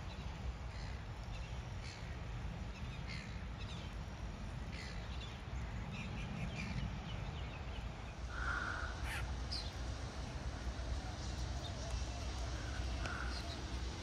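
Wild birds calling: scattered short high chirps, with a couple of louder calls about eight and a half and thirteen seconds in, over a steady low rumble.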